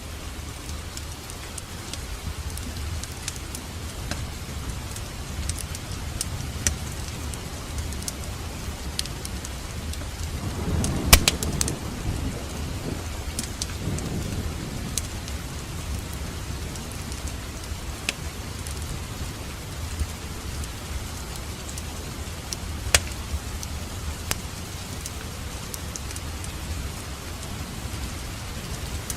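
Wood fire crackling in a fireplace: a steady low rumble of flames with scattered snaps and pops. About eleven seconds in there is a louder cluster of snaps with a swell of flame, and later one sharp pop.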